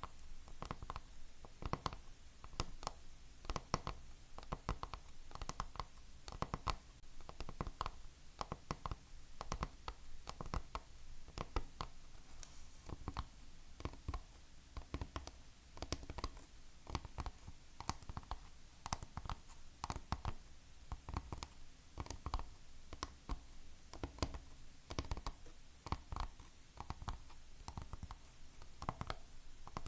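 Fingernails tapping quickly on hard objects: many light, sharp taps in uneven clusters.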